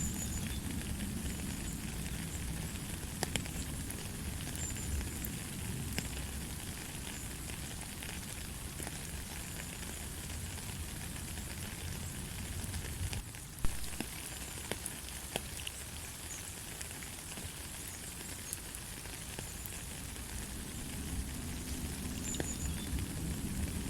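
Steady light rain falling, an even hiss with a low rumble under it and scattered ticks of single drops striking close by. One sharper tap stands out about halfway through.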